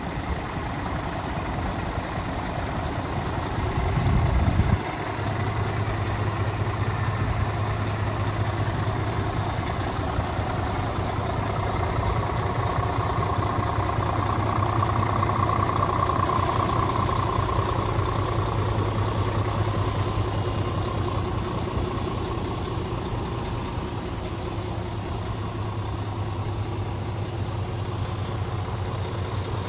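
2015 Scania P370 tipper's five-cylinder diesel engine idling steadily. A brief louder rumble comes about four seconds in, and about halfway through a sudden hiss of air starts and fades over a few seconds.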